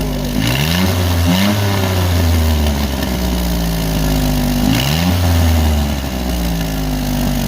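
Chevrolet Camaro 2SS 6.2-litre V8 through a muffler-delete exhaust, blipped three times. It rises sharply in pitch each time and settles back to a steady, deep run in between.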